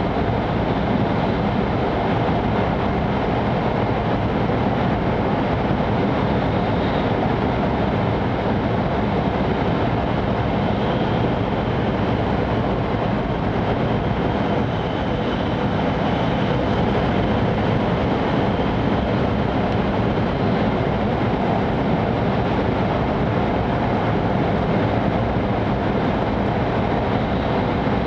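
Steady cabin noise inside an E5 series Shinkansen running at speed: an even, unbroken rush of rolling and air noise.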